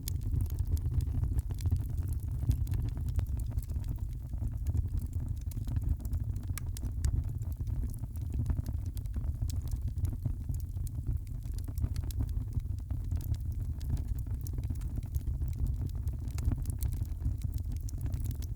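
Wood fire in a fireplace crackling, with many small pops scattered over a steady low rumble.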